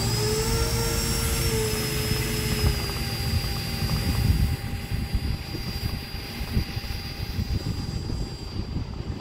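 Motors of a 1/10 scale Horten Ho-229 RC model jet spooling up at the start into a high steady whine, which eases slightly in pitch, over low rumbling noise as the model taxis.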